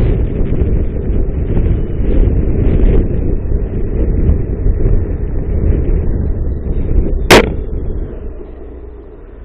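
Heavy wind and road rumble on a dashcam microphone, with one sharp bang about seven seconds in; the rumble dies down soon after.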